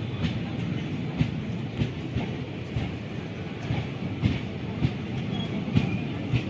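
Train moving through, its wheels clattering over the rail joints: a steady low rumble with sharp clicks about every half second.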